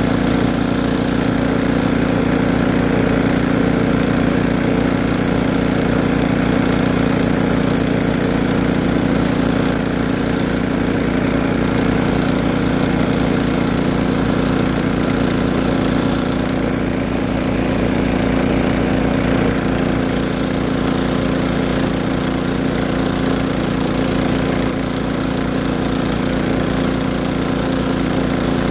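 Snowblower's small gas engine running steadily under load, with a steady high whine over it.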